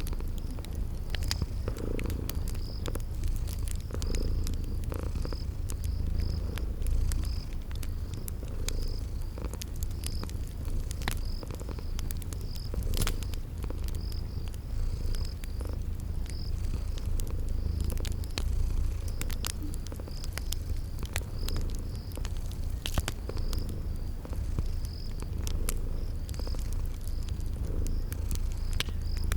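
Domestic cat purring, a steady low rumble, layered with a wood fire crackling in scattered sharp pops and crickets chirping in a regular high pulse.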